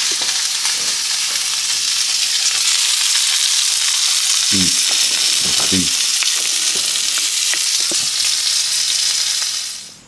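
Small sausages sizzling in a hot nonstick frying pan, a steady hiss of fat spitting that fades out just before the end.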